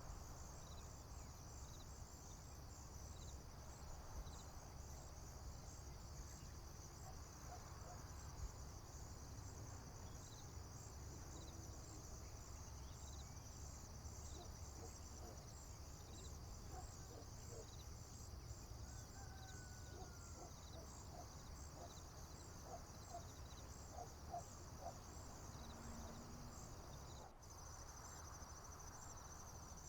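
Field crickets chirping in a steady high chorus of evenly repeating pulses over a faint low rumble, with a few faint distant bird notes. About 27 seconds in, the chorus changes abruptly to a faster, finer trill.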